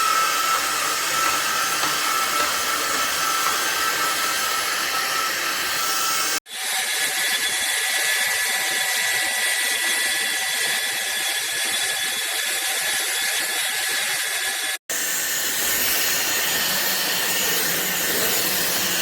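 Cordless stick vacuum running: a steady high motor whine over rushing air. It cuts off abruptly twice, and each time it comes back at a different pitch.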